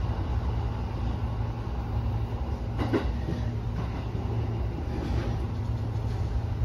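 Electric commuter train running on the Kawagoe Line, heard from inside the driver's cab: a steady low rumble and hum of the moving train. A sharp click comes about three seconds in, and a fainter one about two seconds later.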